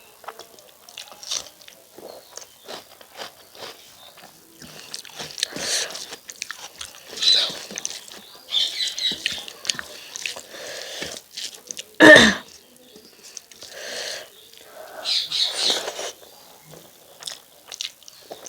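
Close-up eating sounds: irregular wet chewing and mouth smacks of rice and chicken curry, with one much louder sharp crunch or knock about twelve seconds in.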